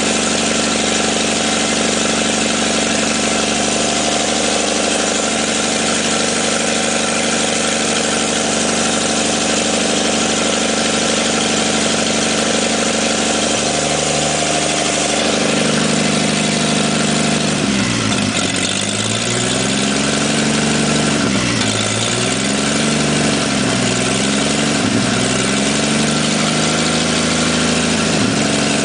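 1954 Chevrolet 235 inline-six engine running smoothly at idle. In the second half its pitch dips and comes back up several times.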